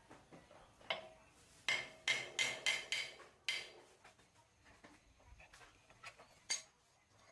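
Metal knocking on metal with a bright ringing tone: one tap, then a quick run of about six strikes, then one more near the end.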